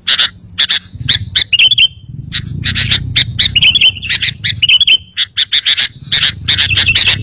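Sooty-headed bulbul (kutilang) calling excitedly: a rapid run of short, sharp chattering notes mixed with brief warbled chirps. A low rumble sits underneath from about a second in.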